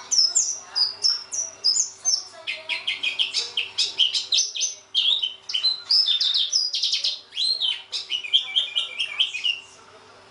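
Pleci (white-eye) singing a fast, continuous song of high chirps and trills that sweep up and down, stopping shortly before the end.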